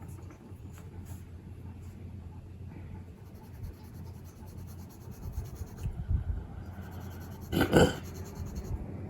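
Watercolour pencil shading on paper: a faint, steady scratching over a low background hum. A brief louder sound comes about eight seconds in.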